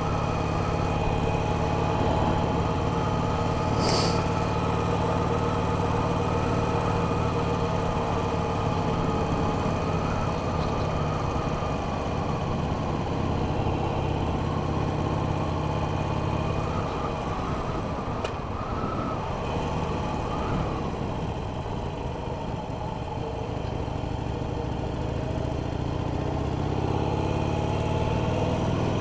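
Harley-Davidson Sportster 883 Iron's air-cooled V-twin engine running steadily as the bike is ridden, heard through the rider's helmet headset microphone. About two-thirds through, the engine note breaks up and dips, then climbs steadily near the end as the bike accelerates.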